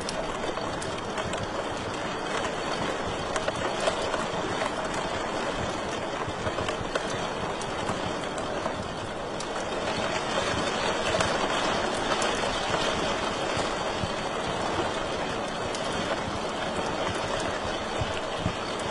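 Wood fire crackling in a fireplace: a steady rushing hiss with many small, scattered pops and snaps.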